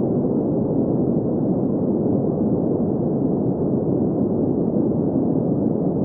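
Green noise: a steady, even hiss centred in the low-mid range, with nothing above about 2 kHz.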